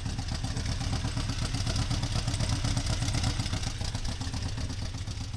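A vehicle engine idling, a steady, rapid, even pulsing.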